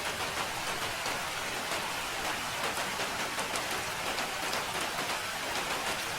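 Steady rain falling, a constant hiss with many small, separate drop impacts pattering on a surface.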